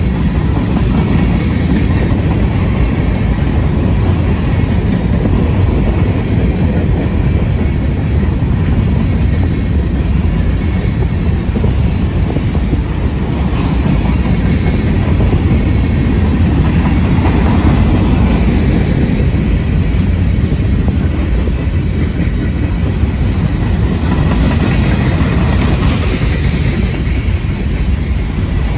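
Cars of a CSX mixed freight train, covered hoppers and tank cars, rolling past at speed: a loud, steady rumble of steel wheels on the rails, with higher rattling that swells briefly a couple of times.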